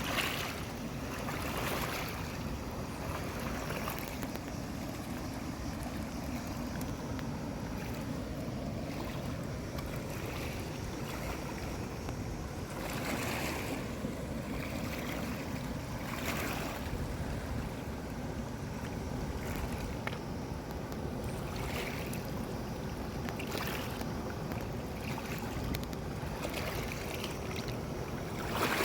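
Steady rush of flowing stream water with wind buffeting the microphone, and brief louder noisy bursts every few seconds.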